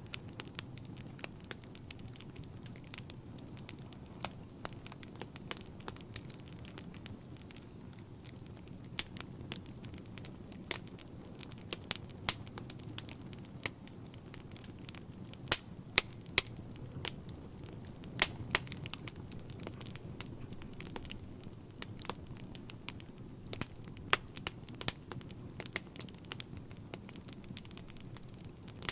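Fire burning in a fireplace, crackling steadily over a low rush of flame, with frequent sharp pops, a few of them loud near the middle.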